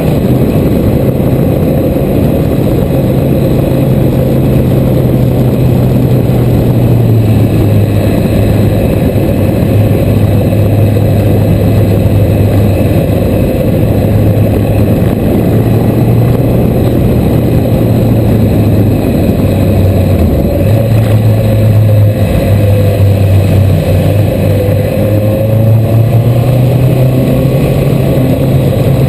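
Suzuki GSX1300R Hayabusa's inline-four engine running steadily on the move, its note dipping and rising a little a few times, with a continuous rushing noise over it.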